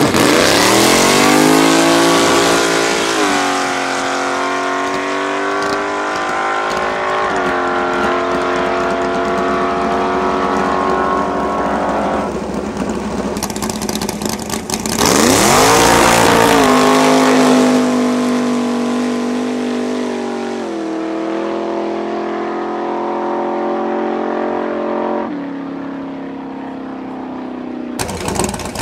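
American muscle cars accelerating hard past, one at the start and another about halfway through. Each engine's pitch sweeps down as the car goes by, then the car keeps pulling away through the gears, with a step in pitch at each shift.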